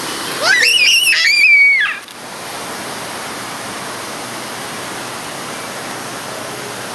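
A shrill high-pitched cry that rises and wavers for about a second and a half, then a steady hiss of background noise.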